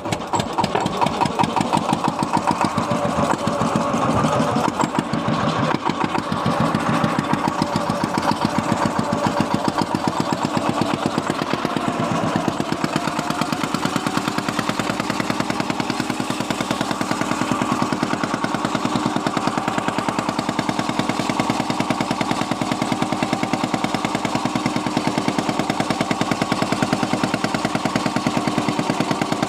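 A small boat's engine running steadily, a fast, even chugging that keeps the same pace throughout.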